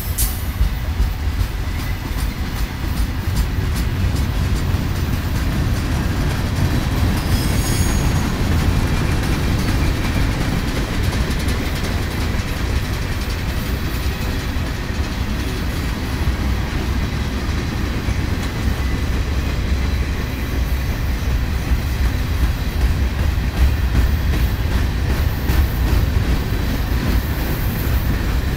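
Freight cars rolling past: a steady rumble of steel wheels on the rails, with clattering over the rail joints.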